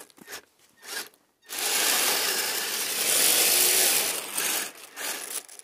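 RC vehicle driving through snow: a steady rasping churn of motor, drivetrain and tracks or tyres in the powder, starting a little over a second in and lasting about three seconds.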